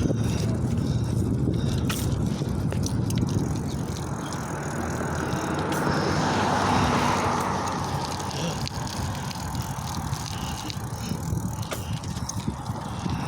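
Steady wind rush and tyre noise from riding a bicycle along a road, with small scattered rattles. A passing vehicle swells and fades about six to seven seconds in.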